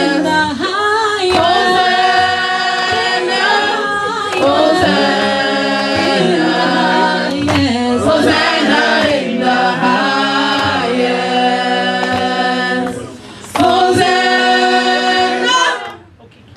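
A church choir singing a cappella in long, held chords. The singing breaks off briefly about three-quarters of the way through, then resumes and stops shortly before the end.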